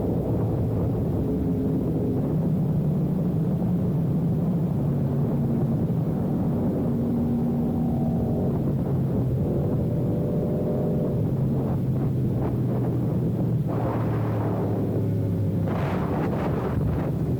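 Sport motorcycle engine running under way, its note shifting in pitch as the bike rides along, with a few brief louder patches near the end.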